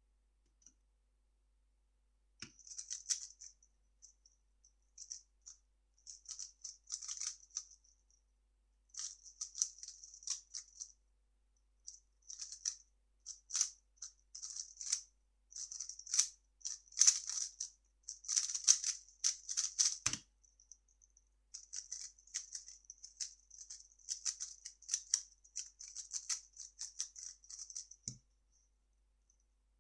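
3x3 speedcube being turned fast by hand: a dense, rapid clicking clatter of plastic layers in quick runs with short pauses. Short low thumps come about two seconds in, around twenty seconds and near the end.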